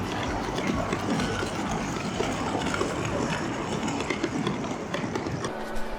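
Railway station din: a steady rumble of trains and people moving about, dotted with many small clicks and knocks.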